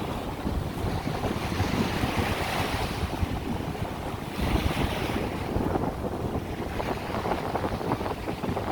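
Wind buffeting the microphone over surf washing onto a beach, the waves swelling and falling back twice.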